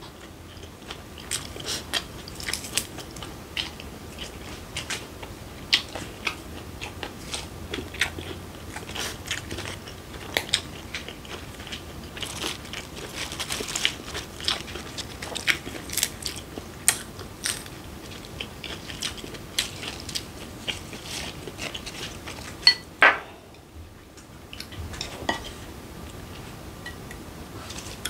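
Chewing and crunching of raw fish sashimi and fresh lettuce and perilla leaves: many short, irregular crisp clicks and crunches, with a couple of louder ones late on.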